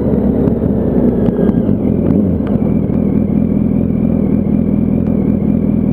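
Yamaha R1 inline-four engine running steadily at low speed, with no revving.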